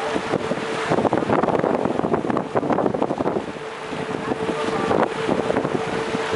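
Boat engine running with a steady hum, with wind buffeting the microphone in gusts.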